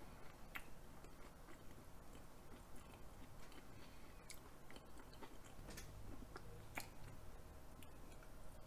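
Faint close-miked chewing of soft raw salmon wrapped with raw beef yukhoe, mouth closed, with small wet clicks scattered throughout.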